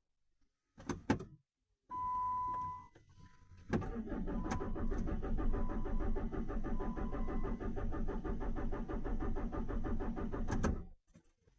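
Chrysler Grand Voyager: a click, then a short steady warning chime, then the starter cranks the engine for about seven seconds with an even rhythm, never catching, before stopping. The engine cranks without firing, with low fuel volume in the system and timing-error codes stored.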